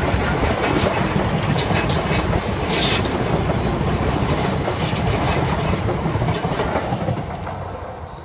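Electric multiple-unit passenger train passing the crossing, its wheels clattering over the rail joints with repeated sharp clicks. It fades away near the end as the last carriage goes by.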